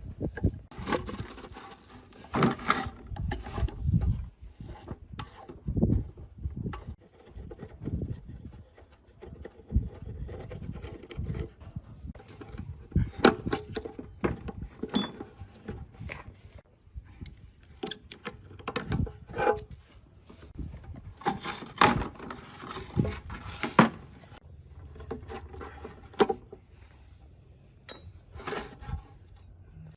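Irregular hand-tool work on metal machine parts: scraping and rubbing with scattered clinks and knocks.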